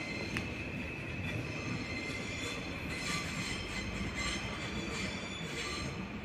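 Train wheels squealing against the rails: a steady high-pitched screech with overtones over the low rumble of a train rolling through the station.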